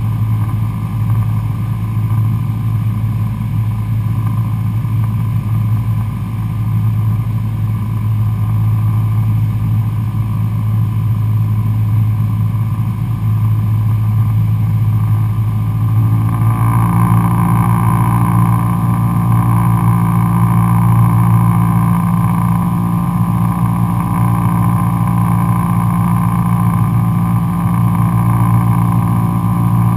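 Cessna 172SP Skyhawk's four-cylinder Lycoming engine and propeller droning steadily, heard from the cockpit. About sixteen seconds in the sound grows fuller and a little louder, then holds steady.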